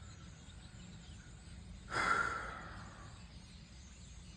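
Faint steady outdoor night ambience, with a single breathy exhale close to the microphone about two seconds in that fades out over about a second.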